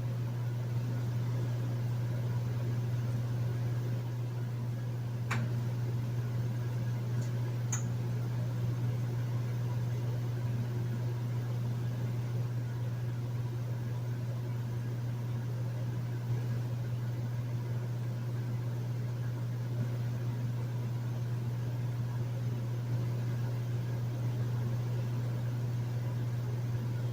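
Hotel room air conditioner running steadily: a constant low hum under an even hiss of airflow. There are a couple of faint ticks about five and eight seconds in.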